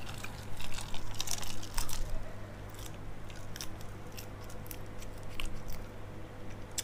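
Close-up chewing and biting of a giant water bug (maengda): a quick run of crisp crunches over the first two seconds, then quieter, sparser chewing. A steady low hum runs underneath.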